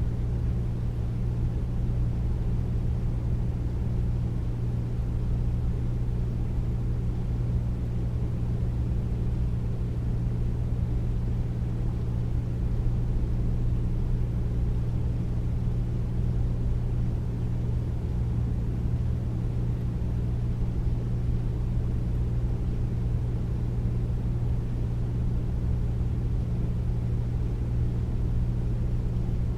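Air conditioner running steadily: a deep, even hum with a low rushing noise that does not change.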